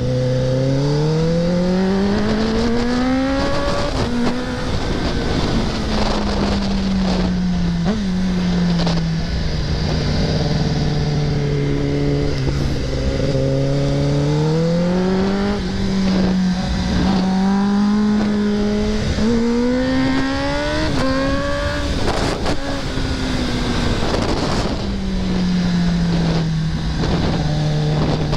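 2024 Kawasaki ZX-10R's inline-four engine heard from the bike, its pitch climbing under acceleration and dropping back several times as the throttle is opened and closed. It climbs over the first four seconds, falls, climbs again in the middle, and falls again near the end.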